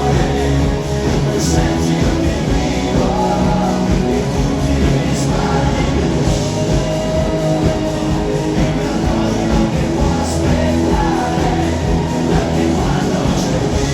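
Rock song played live by a massed band of hundreds of musicians, with singing over electric guitars and drums.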